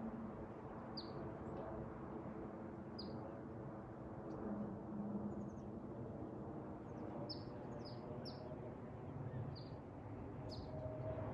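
A bird chirping: about seven short, high, slightly falling chirps, spaced a second or two apart with a quick run of three a little past the middle, over a steady low background noise.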